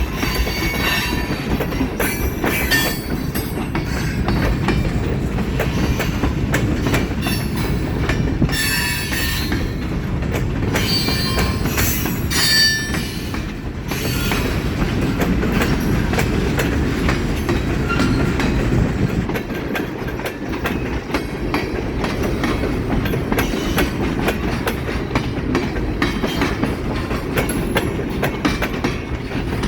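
Train cars rolling steadily past, with wheels clacking over the rail joints and steel wheels squealing against the rails now and then.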